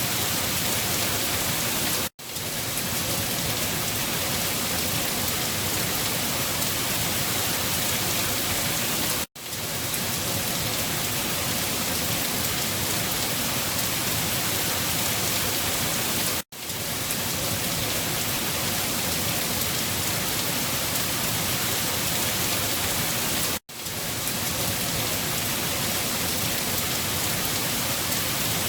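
Steady, dense rainfall. The rain cuts out for an instant four times, about seven seconds apart, and swells straight back each time.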